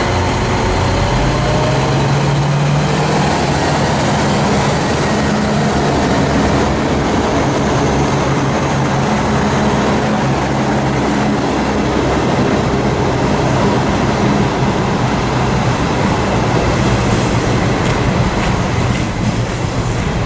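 Diesel regional train running past close by and pulling away: a steady loud rumble of wheels on the rails with a low engine hum.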